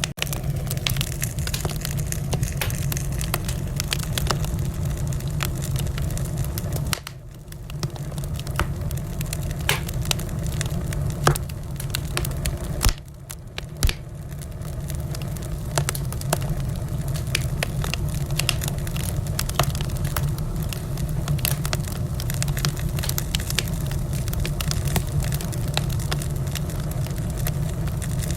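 Wood fire crackling in a fireplace: a steady low rumble of flames under a constant scatter of small pops, with a few louder snaps around the middle. The sound drops briefly twice, about seven and thirteen seconds in.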